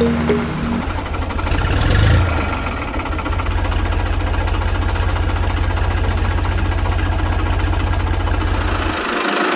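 Small electric motor of a homemade miniature machine running with a fast, steady rattle, swelling louder about two seconds in and stopping suddenly near the end.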